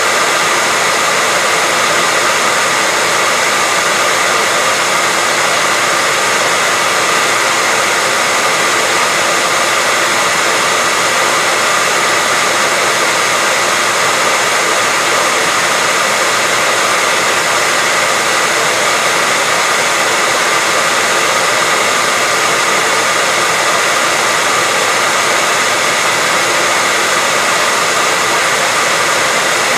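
Hair dryer running steadily, an even high-pitched blowing hiss with a faint steady whine, used as white noise to lull a baby to sleep.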